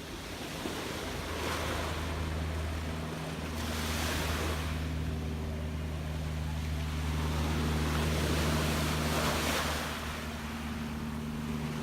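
Gentle sea waves washing in, swelling and falling back every three to four seconds, over a steady low hum.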